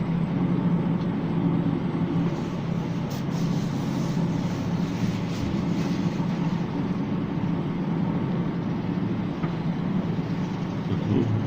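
Steady low mechanical hum and rumble of a Ferris wheel turning, heard from inside its gondola.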